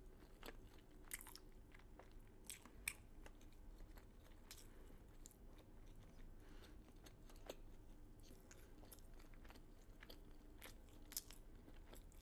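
Faint close-up chewing and crunching of crispy fried chicken, with scattered irregular crackles of the breading; a couple of sharper crunches stand out, one about three seconds in and one near the end.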